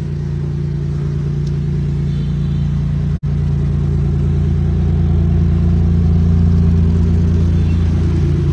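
Maserati MC20 Cielo's twin-turbo V6 idling with a steady low hum that slowly grows louder. The sound cuts out suddenly for an instant about three seconds in.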